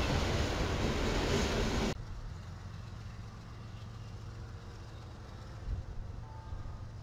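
Loud, steady rolling noise of freight autorack cars passing on the rails, which cuts off abruptly about two seconds in. It gives way to the much quieter, steady low rumble of a CSX diesel locomotive leading a slow-moving train.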